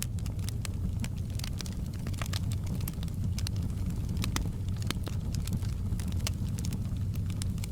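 Wood fire crackling, with many small sharp pops at irregular intervals over a steady low rumble.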